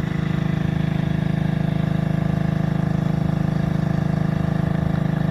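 Portable generator's small engine running steadily, an even fast chug.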